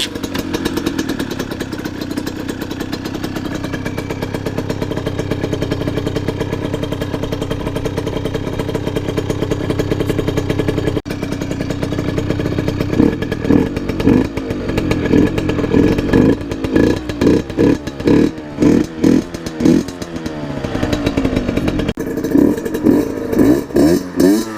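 HM Dérapage RR 50's 49 cc two-stroke single-cylinder engine with a Giannelli exhaust, running steadily at first. From about halfway it is revved in a rapid series of throttle blips, each one rising and falling in pitch.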